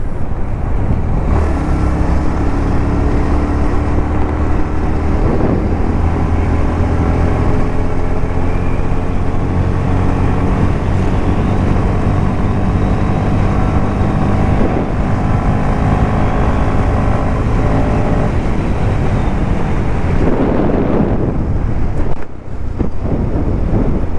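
Motorcycle engine running on the move, its pitch slowly rising and falling with speed, with wind noise on the microphone.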